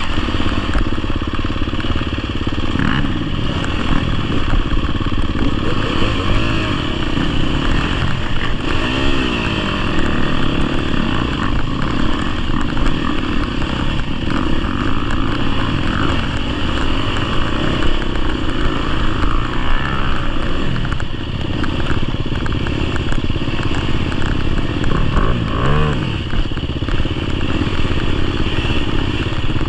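GasGas EX250F enduro dirt bike's 250cc four-stroke engine being ridden, its pitch rising and falling as the throttle is opened and closed, over a steady rush of noise.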